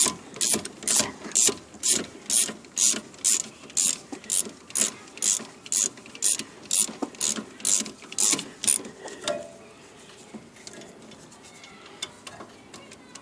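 Socket ratchet wrench tightening a brake caliper bolt: quick back-and-forth strokes, about two a second, each a rasp of ratchet clicks. The strokes stop about nine seconds in, and only faint handling sounds follow.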